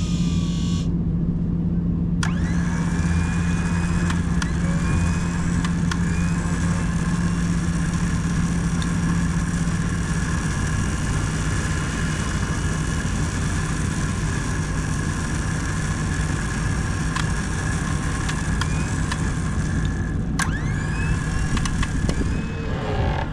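Truck-mounted electric winch running steadily with a low hum as it drags a car out of a ditch. Faint rising squeaks come and go over it.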